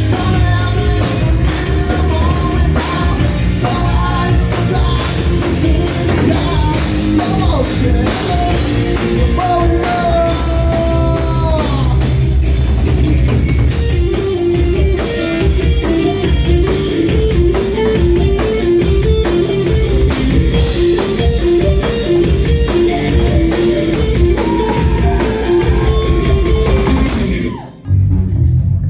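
Rock band playing live: drum kit, electric guitars and bass in a loud, dense song. The music drops out briefly near the end before the bass comes back in.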